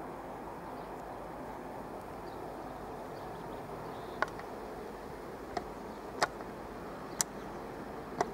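Steady running noise of an electric train passing behind a noise barrier, with several sharp clicks in the second half from a stiff, rusted tripod head as the camera pans.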